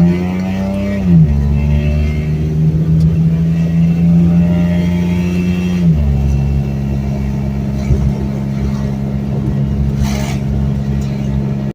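Geo Metro engine running under way with its automatic transmission. The engine note drops sharply about a second in and again about six seconds in, as the transmission shifts up, and holds steady in between. The shifts come through normally after a transmission flush.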